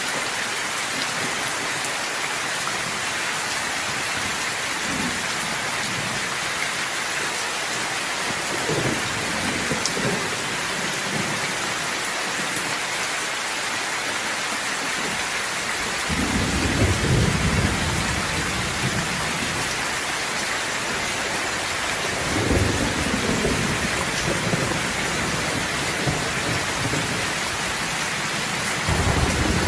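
Steady rain falling, with several low rolls of thunder rumbling through it; the loudest roll sets in a little past halfway, and another begins near the end.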